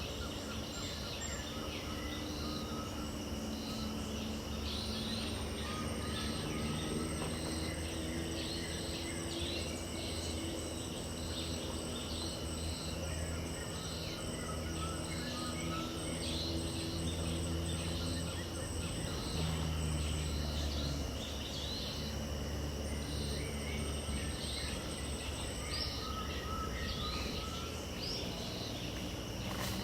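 Wetland dawn chorus: insects droning in a constant high buzz, with many quick chirps and scattered bird calls over a low, steady rumble.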